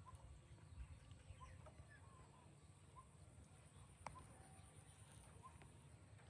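Faint, short animal chirps repeating about every second and a half over a low background hum, with one sharp click about four seconds in.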